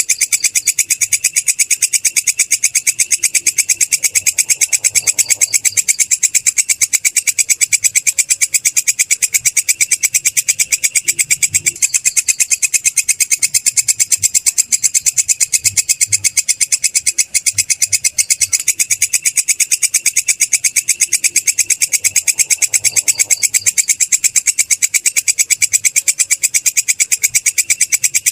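Belalang kecek katydid stridulating: a continuous, very fast, even train of dry, high-pitched pulses, unbroken throughout.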